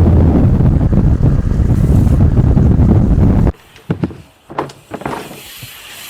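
Loud, steady rushing noise of wind buffeting the microphone over moving water, which cuts off suddenly about three and a half seconds in. A few faint knocks follow.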